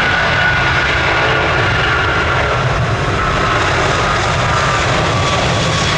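Jet airliner engines running loud and steady, with a deep rumble and a thin whine that slowly falls in pitch.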